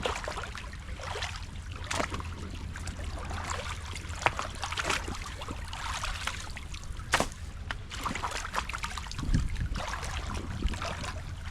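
Creek water running and gurgling through a breached beaver dam, with scattered sharp knocks and splashes.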